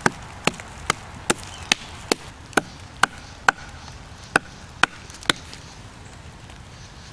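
About a dozen sharp strikes on wood, roughly two a second, stopping a little after five seconds in: chopping at a fallen pine's branch stub to break off resinous fatwood.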